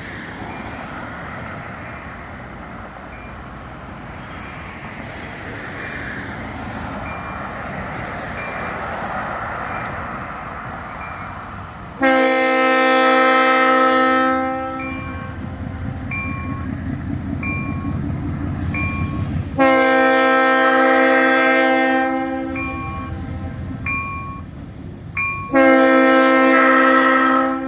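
Diesel freight locomotive running, with a bell ringing about once a second. Its air horn sounds three long chord blasts, about halfway through, again at about two-thirds, and again near the end.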